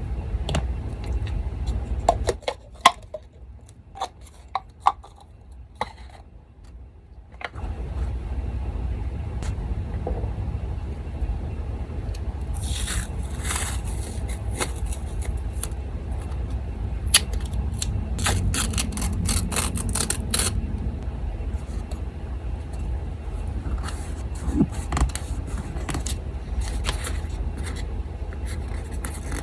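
Paper crafting sounds: sheets of paper handled and scraped, with scattered small clicks and snips, over the steady low hum of an electric fan. The hum drops out for about five seconds near the start, and there are two longer scraping passes in the middle.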